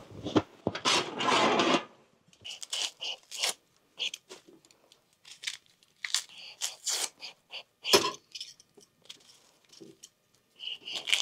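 Eggplant being worked by hand for cooking: a longer rasping scrape about half a second in, then a scatter of short scrapes and light clicks.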